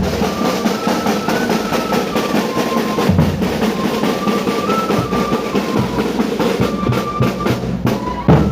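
Drum-led music: drums beaten steadily and densely, with a single high melody of held notes stepping up and down over them.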